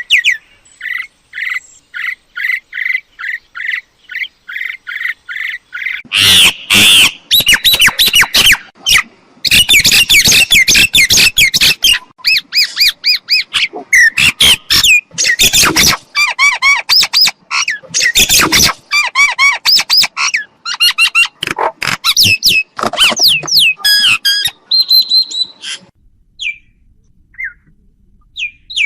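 Myna calling: a run of short repeated chirps, then from about six seconds in a loud, varied stream of squawks, whistles and chattering notes, thinning to a few scattered notes near the end.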